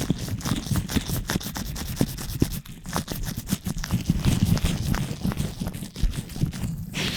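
Latex-gloved hands rubbing and scratching directly on a microphone in quick, close strokes, heavy in the low end.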